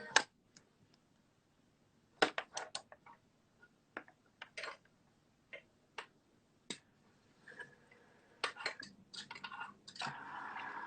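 Sparse light taps and clicks of typing on a phone, in small clusters with gaps between them.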